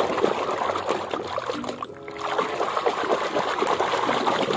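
Water splashing and churning in a tub as a hand scrubs a plastic toy elephant under the surface, easing off briefly about halfway through.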